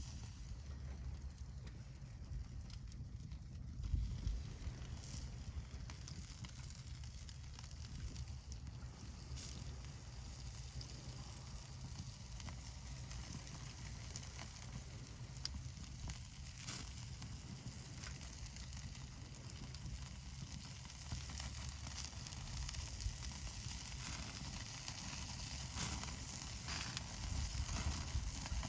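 Wood fire crackling with irregular snaps and pops, and meat sizzling on a grill over it, over a steady low rumble.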